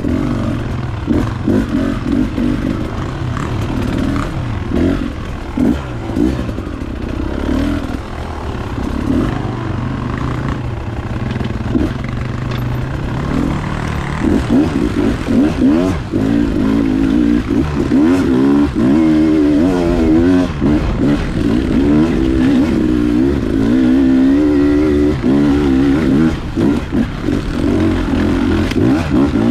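Beta 300 RR two-stroke dirt bike engine running under way, its revs rising and falling continually as the throttle is worked. The engine grows louder about halfway through.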